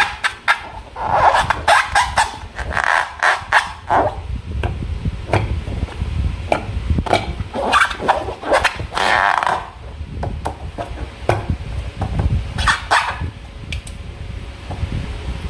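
Slime being squished and worked by hand, making irregular wet clicks, pops and squelches, some in quick runs, over a steady low rumble.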